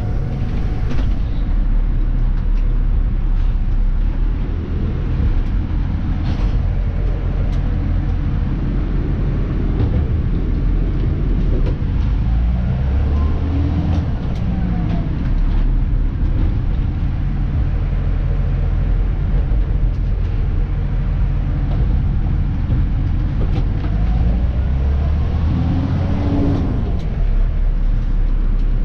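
Dennis Elite 2 garbage truck's diesel engine and drivetrain, heard from inside the cab while driving. It is a steady low drone whose pitch rises and falls a couple of times as the truck changes speed, with a few short clicks and knocks.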